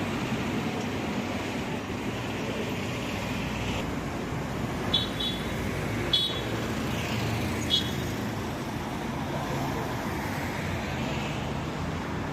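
Street traffic noise: vehicles passing, swelling and fading. A few short, high chirps come between about five and eight seconds in.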